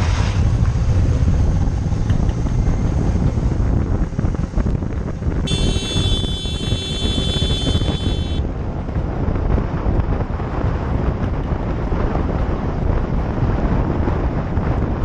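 Wind buffeting a motorcycle rider's microphone over engine and road rumble while riding at speed. A steady high-pitched tone sounds for about three seconds, starting about five and a half seconds in.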